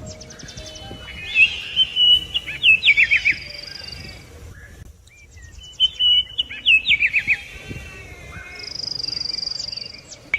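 Songbirds singing: two loud phrases of quick chirps ending in a fast run of falling notes, with high, thin whistled notes before and after.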